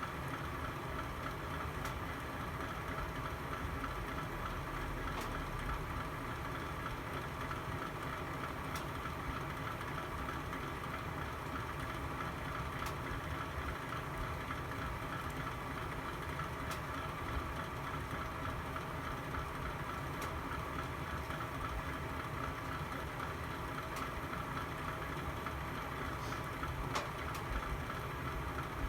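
Wood fire burning in a fireplace: a steady low rumble with a sharp crackle or pop every few seconds.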